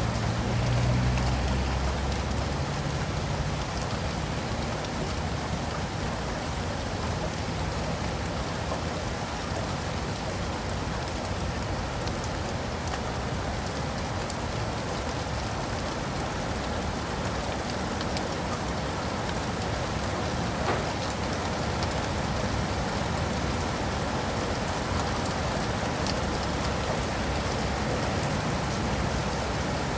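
Steady rain falling, drops pattering on leaves and pavement. A low rumble sits under it for the first few seconds, then fades.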